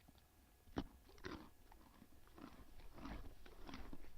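Faint crunching and clicking like chewing: a single crackle about a second in, then a denser run of crunches in the second half.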